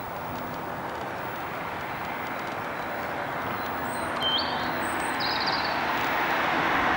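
Steady noise of approaching traffic, growing slowly louder, with a few short high bird chirps about four to five and a half seconds in.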